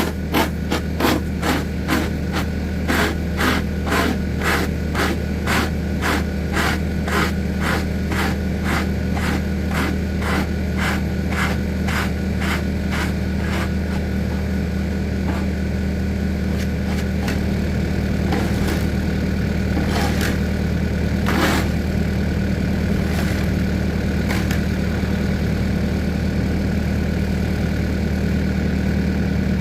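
New Holland C232 skid steer's diesel engine running steadily. Over the first half there is a regular clacking at about two a second that fades out, and after that only a few single knocks.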